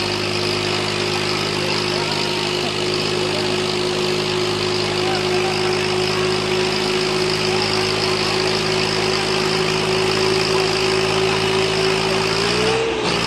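Swaraj 855 tractor's three-cylinder diesel engine running at a steady speed, its pitch rising briefly and dropping back near the end.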